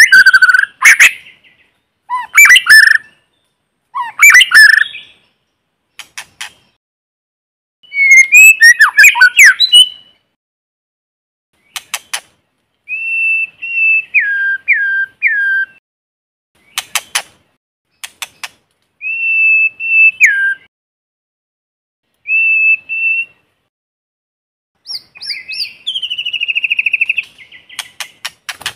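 White-rumped shama singing, in loud separate phrases a few seconds apart. Harsh, chattering sweeps in the first ten seconds give way to clear whistled notes that each drop in pitch at the end, and a rising buzzy trill near the end.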